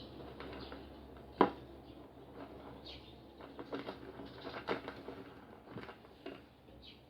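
Close-miked chewing of crispy fried food, with irregular small crunches and mouth clicks and one sharp click about one and a half seconds in.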